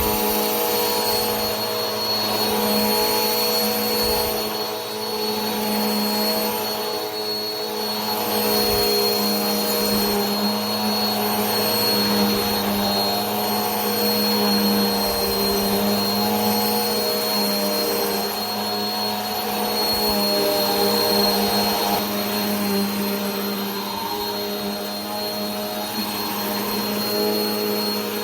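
Vacuum cleaner running continuously: a steady motor hum with a high whine and rushing air, swelling and easing slightly every few seconds.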